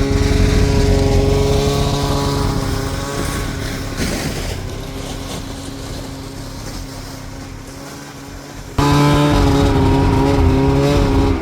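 Two-stroke Arctic Cat snowmobile engine running at a steady pitch while riding. The sound eases off gradually, then cuts back in loud about nine seconds in.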